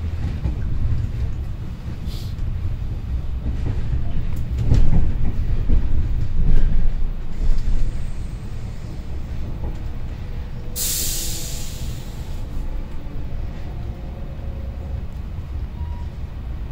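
Passenger train running slowly out over the station tracks, heard from inside the carriage as a steady low rumble. Between about four and seven seconds in, the wheels knock over the points, and a short loud hiss comes about eleven seconds in.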